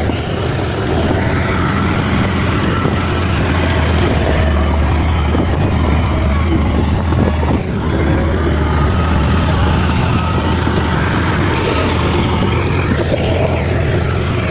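Bulldozer's diesel engine running steadily, with a constant low drone.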